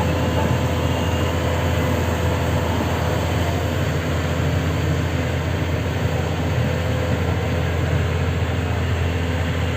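Sany SY500H excavator's diesel engine running steadily: a constant low drone with a thin, steady whine above it.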